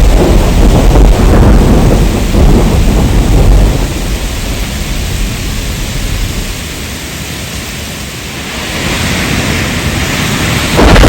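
Heavy rain with a long thunder rumble that dies away over several seconds, leaving the rain's hiss, which then swells again. A loud low rumble cuts back in suddenly near the end.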